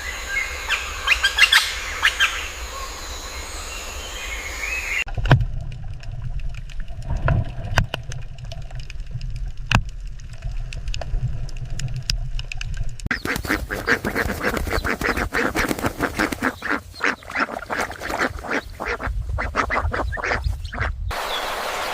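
Ducks quacking, in three spliced takes that change abruptly about five seconds in and again about thirteen seconds in.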